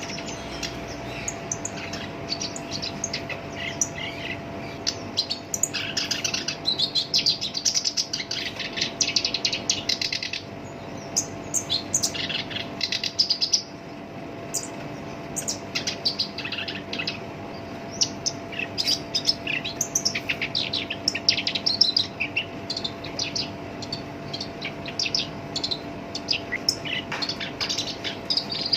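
Black-browed reed warbler singing continuously, a harsh song of fast, scratchy chattering phrases with only brief pauses between them.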